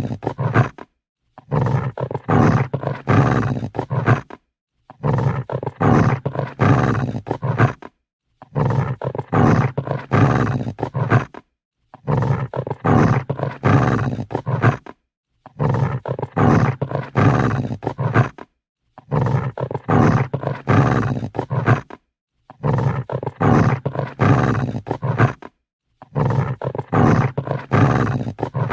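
Dog growling angrily: a deep, rasping growl about three seconds long, repeated over and over with short silent gaps between.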